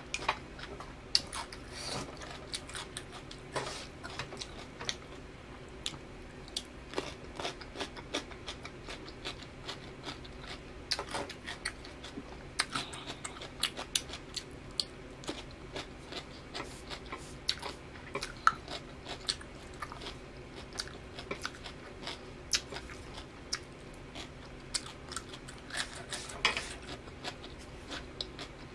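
Close-up eating sounds of a person biting and chewing crisp cucumber slices: many short crunches and wet mouth clicks at an uneven pace, over a faint steady hum.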